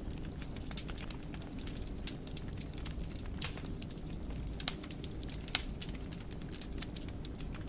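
Wood fire crackling in a fireplace: scattered sharp pops and snaps at irregular intervals over the low, steady rumble of the flames.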